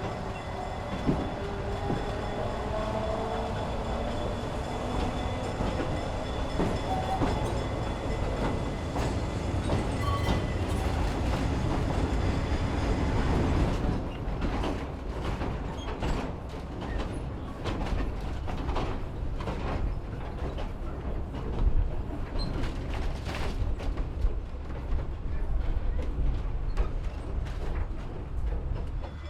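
Narrow-gauge railroad car rolling along the track with a steady rumble. A wheel squeal glides in pitch over the first few seconds, and from about halfway on a run of clicks and knocks comes from the wheels on the rails.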